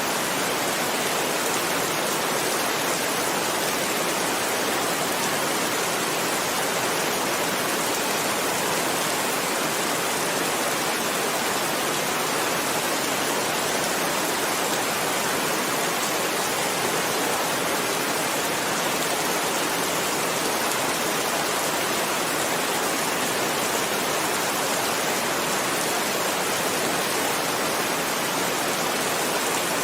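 Steady heavy rain: an even, unchanging hiss.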